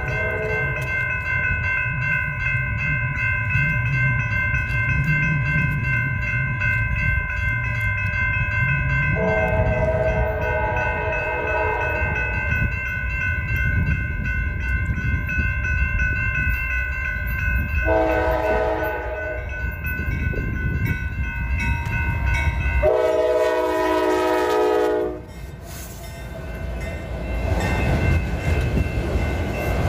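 Freight train passing through a grade crossing with a steady rumble, its air horn sounding in several blasts. Crossing-signal bells ring throughout, stop after about 22 seconds and start again near the end.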